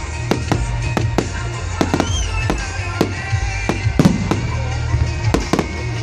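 Fireworks going off in a rapid series of sharp bangs, over music with a steady bass. A short whistle about two seconds in.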